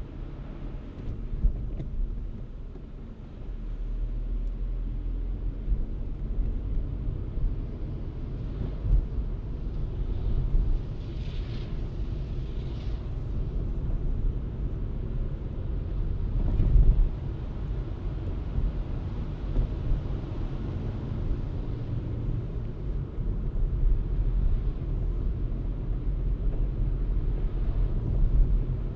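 Car driving through city streets, a steady low road and engine rumble with a few brief bumps, the strongest about 17 seconds in.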